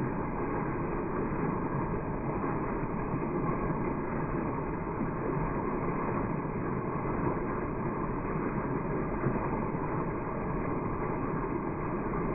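Steady rush of falling water from a small waterfall, an even noise with no breaks.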